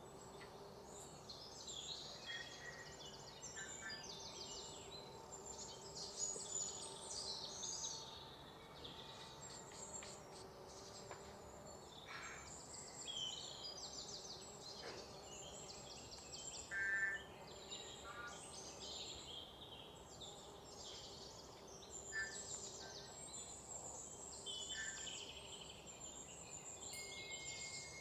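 Birds chirping, their short calls and trills overlapping, over a faint steady hum.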